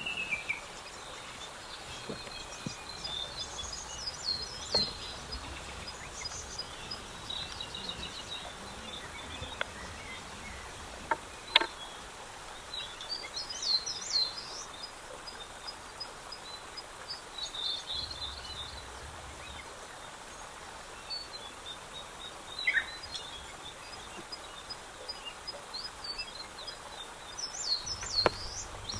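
Outdoor ambience of birds chirping and singing in scattered bursts, over a faint, steadily repeated high note and a low background hiss. A few sharp clicks stand out, the loudest about eleven and a half seconds in.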